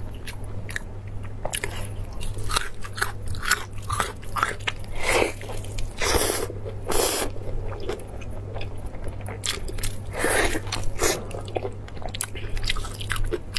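Close-up eating sounds of braised beef: wet chewing and biting, with the meat torn apart by gloved hands. Irregular sharp clicks and smacks, with a few longer squelching tears.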